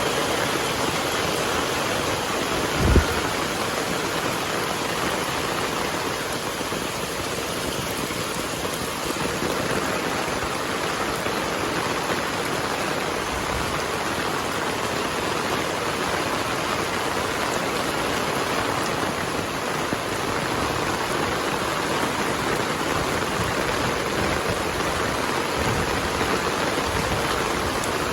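Heavy rain falling steadily, with a brief low thump about three seconds in.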